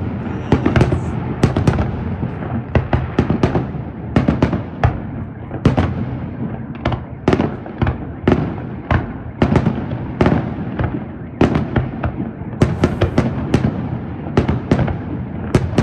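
Aerial fireworks shells bursting in rapid, irregular succession: sharp bangs two or three a second over a continuous low rumble of echoing reports.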